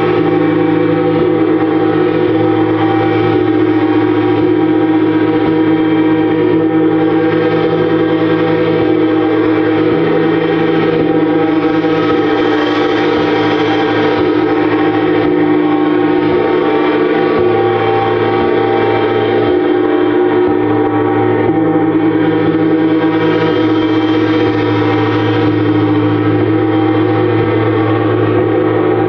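Gongs played continuously in a gong bath: a dense wash of many overlapping sustained tones that swell and ebb slowly without any pause.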